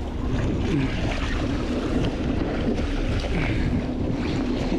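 A boat engine running steadily at sea, with wind buffeting the microphone and the sound of waves.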